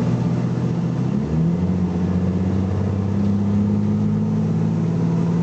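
BMC Belde 220-SLF city bus engine pulling under load. About a second in, the revs step up sharply, as in a kickdown of the automatic gearbox, and then hold steady at the higher pitch.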